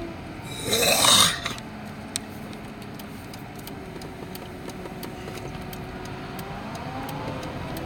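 A car running with a steady low hum, a short loud rough burst about a second in, and a rising whine near the end.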